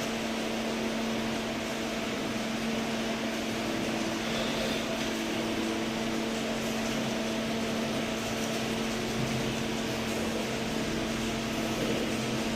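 Steady electrical hum with a constant tone and an even hiss, unchanging throughout.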